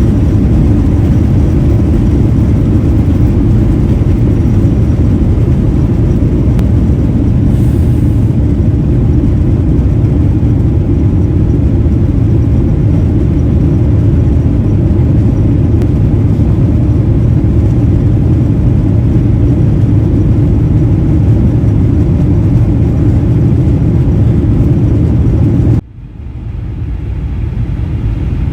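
Steady loud rumble of a jet airliner heard from inside the cabin. Near the end it breaks off sharply, then builds back up.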